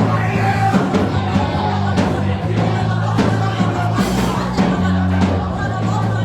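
Church worship music: held low keyboard or bass chords that change every second or two, regular drum hits, and singing.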